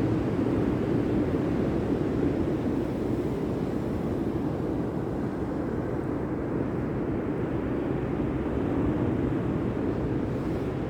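Steady low rumbling noise with no distinct events, easing slightly a few seconds in.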